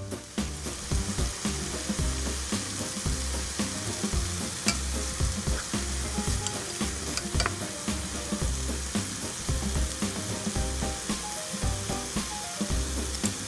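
Chicken and shredded carrots sizzling in oil in a pot, stirred with a wooden spoon, with occasional sharp taps and scrapes of the spoon against the pot. Background music plays underneath.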